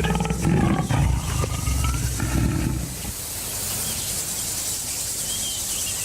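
A male lion's deep, loud calls for about the first three seconds, then a steady high hum of insects.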